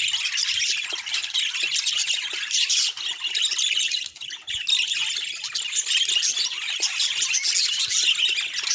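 Budgerigars chattering and warbling in a dense, continuous stream of high chirps and squawks, with a short lull about four seconds in.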